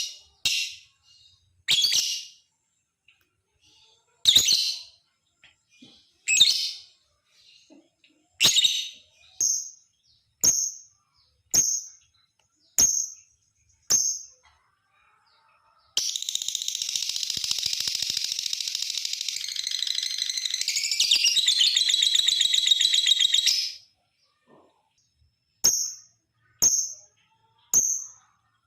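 Lovebird calling: short shrill chirps every second or two, then a long rapid chattering trill lasting about eight seconds (the 'ngekek panjang' long chatter), then a few more chirps near the end. A long chatter like this is what is played to coax other lovebirds into calling.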